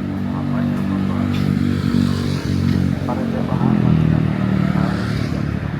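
Street traffic: motor vehicle engines, motorcycles among them, running close by. The engine hum swells and rises in pitch about four seconds in as a vehicle speeds up or passes.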